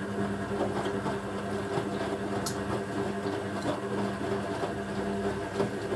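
Hoover A3060 Electronic 1100 washing machine running its wash cycle: the drum motor, a brushed motor, turns the drum with a steady hum and light rattling and clicking.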